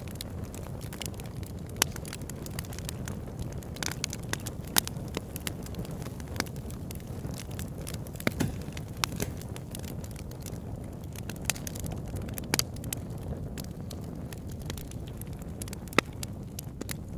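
Wood fire crackling in an oil-drum fire pit: a steady low rush of flame with irregular sharp pops, a few louder ones standing out.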